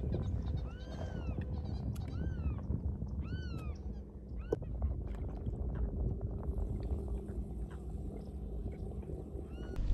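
Birds giving short mewing calls that rise and fall in pitch, single calls at first and then several in quick succession about three and a half seconds in, with one more near the end, over a steady low rumble.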